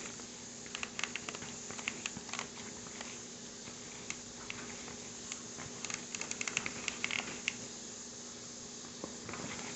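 Dumpling filling being stirred and worked in a bowl: irregular soft squishes and light clicks of the mixing, in bunches, over a steady low hum.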